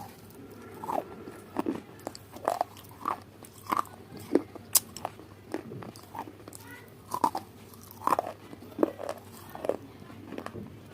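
Close-up eating sounds: crunchy food being bitten and chewed, in an irregular run of sharp crunches and snaps.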